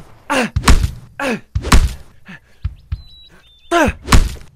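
Fist blows landing in a fistfight, with heavy punch thuds in the style of film sound effects. Four come in quick succession, then after a pause of about two seconds two more land near the end.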